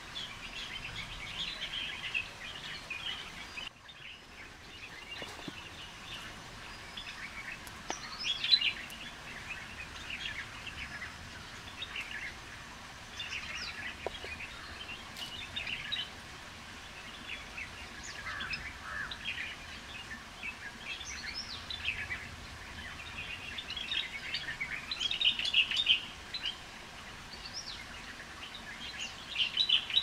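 Forest birds chirping and calling: clusters of short, high notes every few seconds over a soft background hiss, busiest about eight seconds in and again toward the end.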